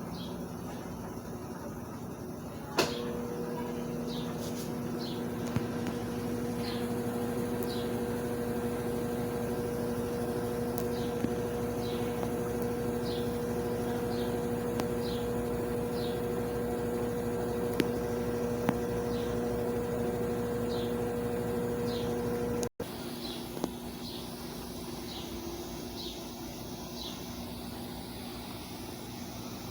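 Consul CWS12 washing machine on its rinse cycle: its motor starts about three seconds in with a steady hum and drops away suddenly about three quarters of the way through. Short, high chirps repeat roughly once a second.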